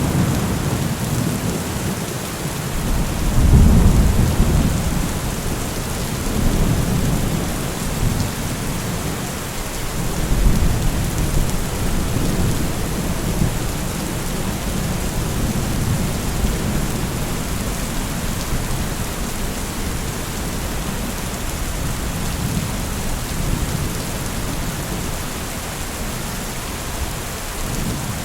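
Steady heavy rain hissing, with low thunder rumbling under it that swells about three seconds in and again about ten seconds in.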